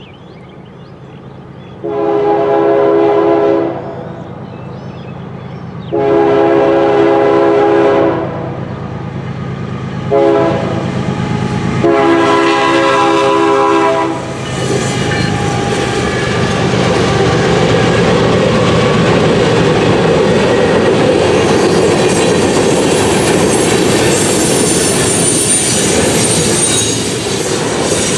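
Norfolk Southern ES40DC diesel locomotive's air horn blowing the grade-crossing signal: long, long, short, long, starting about two seconds in. The train then passes close by, with locomotive engines running and steel wheels on the rails growing louder.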